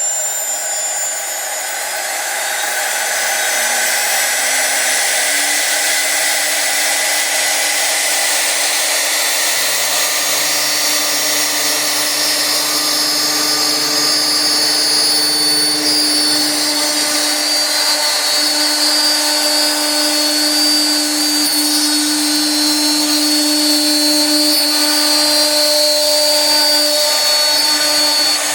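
CNC router spindle running at high speed. Its pitch climbs over the first few seconds, then holds as a steady, loud whine with a hiss above it.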